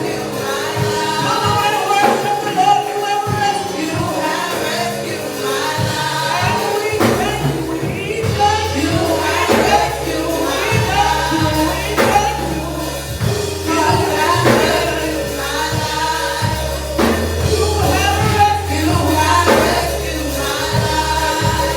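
Live gospel worship music: singing over a band with bass and a steady beat, with tambourine.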